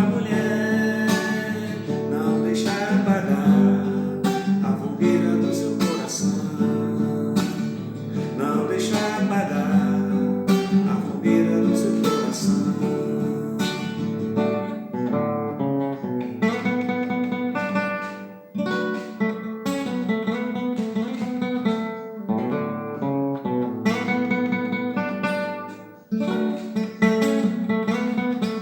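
Acoustic guitar music: an instrumental passage of strummed chords and plucked notes, with two brief breaks in the playing late on.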